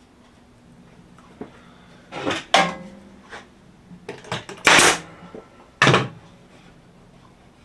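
Wooden picket boards being handled and knocked together during assembly: a few sharp clattering knocks, loudest about two, five and six seconds in, one of them ringing briefly.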